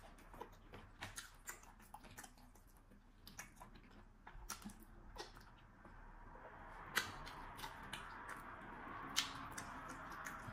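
Close-miked eating sounds: soft wet clicks and lip smacks of chewing fufu and slimy okra soup eaten by hand, over a faint steady hiss. Two sharper smacks stand out in the later part.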